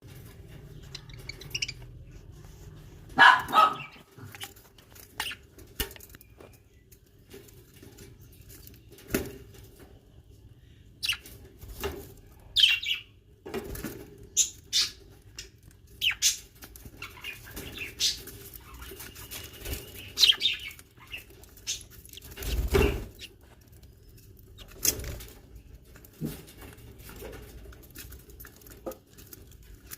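Young birds stirring: scattered short high chirps and flutters of wings, with a few louder knocks, over a faint steady hum.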